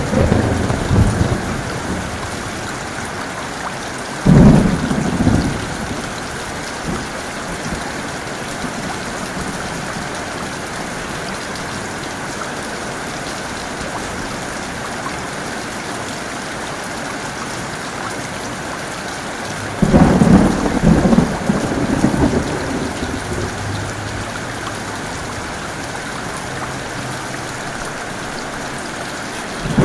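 Heavy rain falling steadily, with thunder: a sharp clap about four seconds in that rumbles for a couple of seconds, and a longer rolling rumble about twenty seconds in. The tail of an earlier peal fades at the start, and another begins at the very end.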